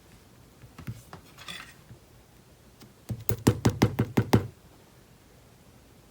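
A few scattered clicks, then a quick run of about nine sharp taps or knocks lasting just over a second.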